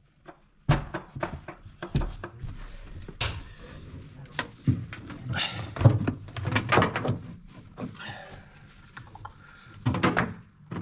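Irregular knocks and thuds with some scraping in between, in a small enclosed space.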